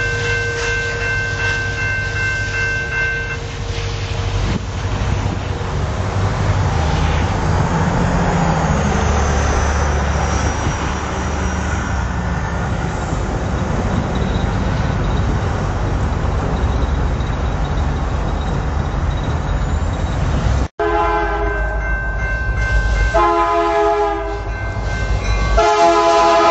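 Freight locomotive horn sounding a chord that cuts off about three seconds in, followed by the steady rumble and wheel noise of a passing double-stack intermodal freight train. After a brief dropout near the end, a locomotive horn blows again in several blasts, the last one the loudest.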